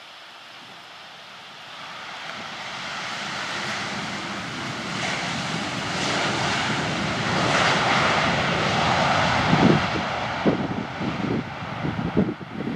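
Jet airliner passing close by. Its engine roar builds steadily for several seconds, peaks, then begins to fade. Wind buffets the microphone near the end.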